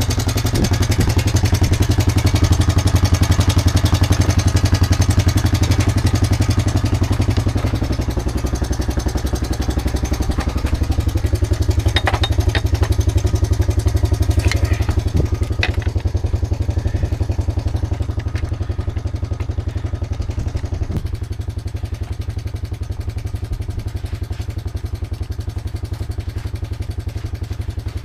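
Four-wheeler's engine idling steadily with an even low pulse, with a few sharp clanks about twelve, fifteen and twenty-one seconds in.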